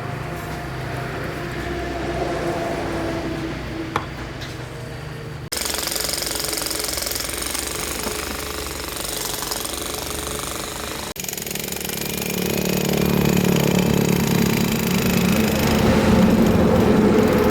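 Machinery running, heard in three stretches that change abruptly about five and eleven seconds in. The last stretch is a strengthening low rumble and the loudest of the three.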